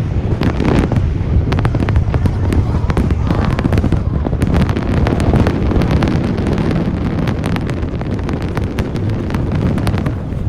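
Aerial fireworks going off in rapid succession: many sharp crackles over a continuous low rumble of bursts, easing off slightly near the end.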